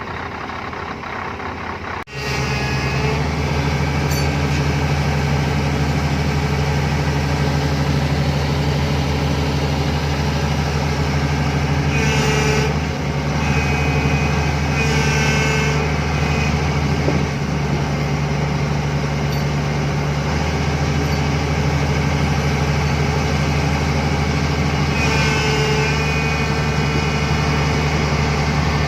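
Heavy diesel engine running steadily at a constant speed, with short high whining tones rising over it now and then. The sound changes abruptly about two seconds in and becomes louder.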